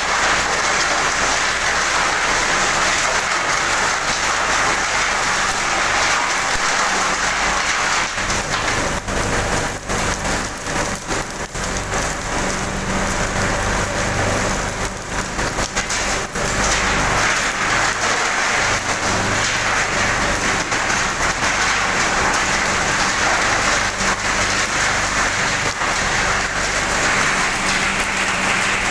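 Diesel forklift engine running, its low hum shifting in pitch now and then, under a loud steady rushing hiss.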